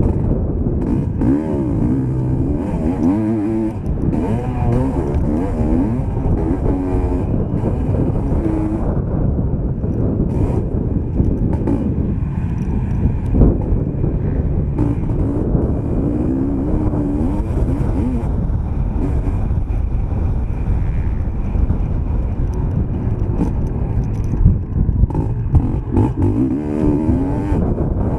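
Motocross bike engine heard from a camera mounted on the bike, revving up and down over and over as the throttle opens and closes, over a heavy low rumble. A few sharp knocks, the loudest about halfway through and another near the end.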